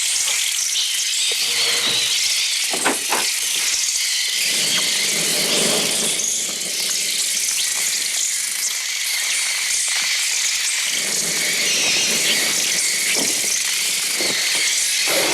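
A swarm of sparrows in a room: a dense, continuous shrill twittering and screeching, with a few knocks and stretches of lower fluttering, rushing noise. This is the film's synthetic bird sound, made electronically on the Mixtur-Trautonium rather than recorded from real birds.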